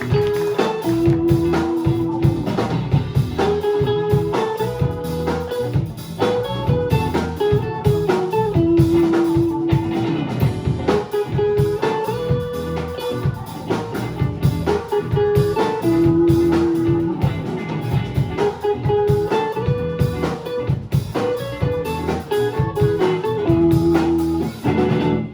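A live band playing: a short melodic lead phrase repeating over bass and drums, with the music cutting off suddenly at the very end on a final stop.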